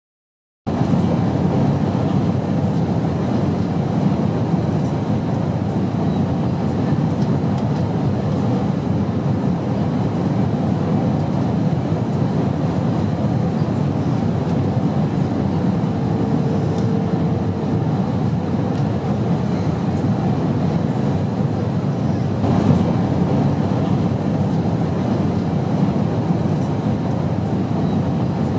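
Steady low drone of an airplane, with no change in level, starting about half a second in.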